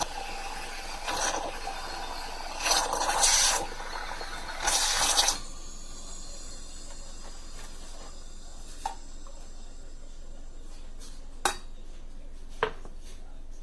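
Handling noises around a De'Longhi Dinamica fully automatic espresso machine: three bursts of rubbing, clattering noise in the first five seconds, then a steady faint hum broken by three sharp clicks.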